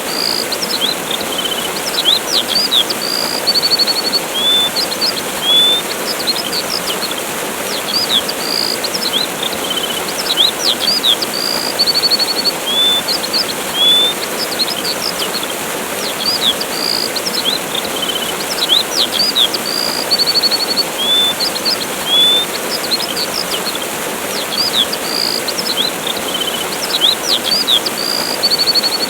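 Steady rush of a waterfall with birds chirping over it: short high rising and falling chirps and a brief buzzy trill, the same run of calls coming back about every eight to nine seconds.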